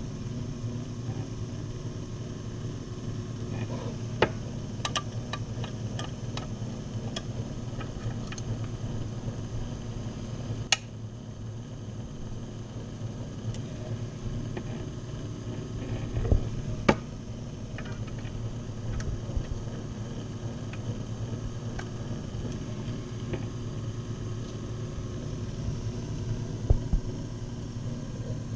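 Key-duplicating machine running on its repaired electric motor, a steady low hum, while keys are cut, with scattered sharp clicks and a few louder knocks.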